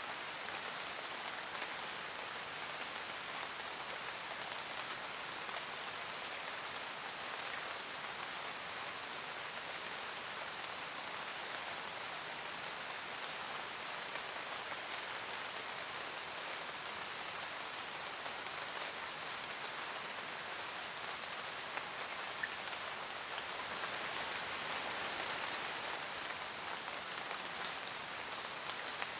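Steady rain falling in a forest, a dense even patter of raindrops with scattered individual drops, swelling slightly a little before the end.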